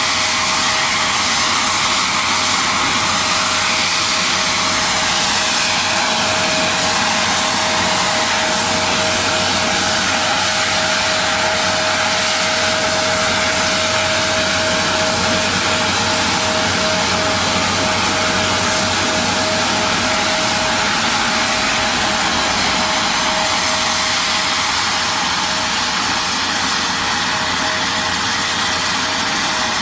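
Aircraft de-icing machinery running steadily: a loud, even rushing hiss with one constant whine, easing slightly near the end.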